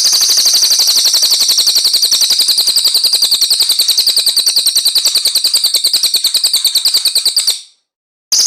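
A songbird's rapid, unbroken trill of high notes, many to the second. It cuts off abruptly about seven and a half seconds in and starts again after a short silence near the end.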